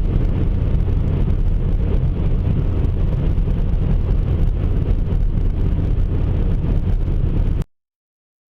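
Steady low rumble of a car driving at road speed, heard from inside the cabin: engine and tyre noise, cutting off suddenly near the end.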